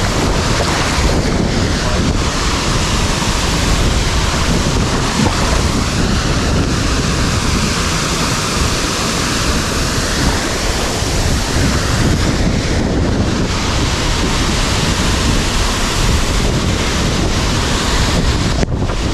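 Waterfall rushing: a loud, steady wash of falling water, with wind buffeting the microphone.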